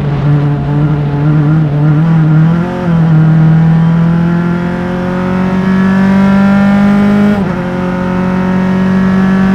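Single-seater race car's engine, heard onboard, pulling hard: a brief shift about three seconds in, then revs climbing steadily to a sharp upshift about seven seconds in, and climbing again.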